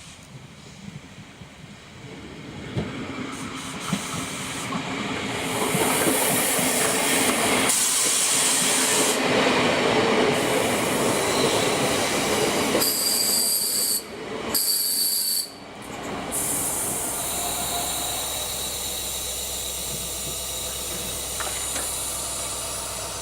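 A train passing on the line: its rumble builds over a few seconds and is loudest through the middle. A high wheel squeal comes in about two-thirds of the way through, the sound breaks off abruptly twice, and a steadier, quieter running sound follows to the end.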